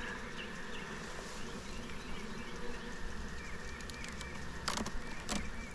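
A crowded colony of honeybees humming steadily over an open hive, with two sharp clicks near the end.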